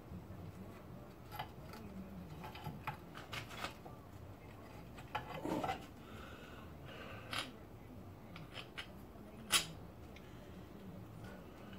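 Scattered light clicks and knocks of hand tools on small metal car parts being stripped down, with the sharpest click about two seconds before the end.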